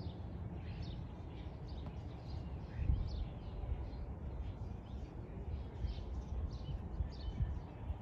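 Several small songbirds chirping, a busy run of short, quick, falling chirps overlapping one another, over a steady low rumble with a brief heavier thump about three seconds in.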